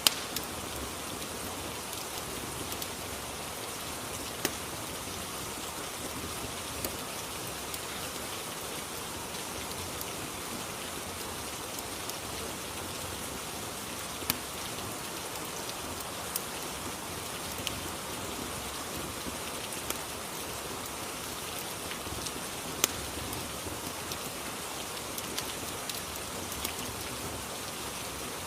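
Steady rain ambience: an even hiss of rainfall, broken by occasional sharp single clicks every few seconds.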